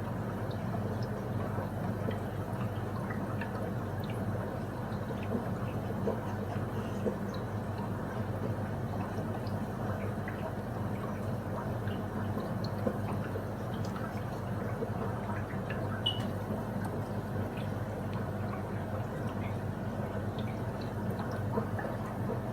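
Aquarium water running steadily, with a faint low hum and light scattered drips.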